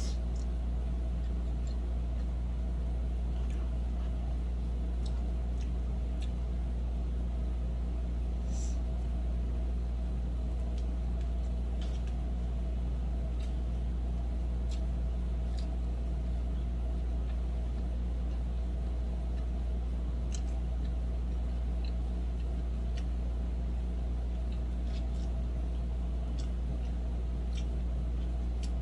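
A steady low hum with scattered faint clicks and smacks of someone eating.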